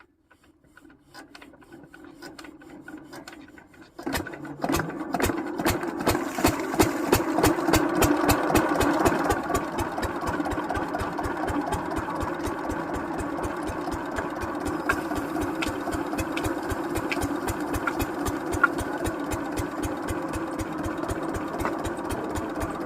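Lister-type diesel water-pump engine being cranked over, its sound building, then catching about four seconds in and running steadily with a regular beat.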